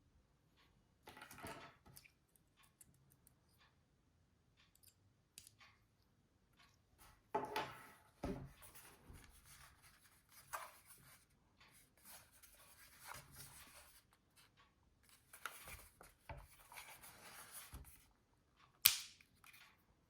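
Handling noises: scattered rustling and clicks, with one sharp click near the end.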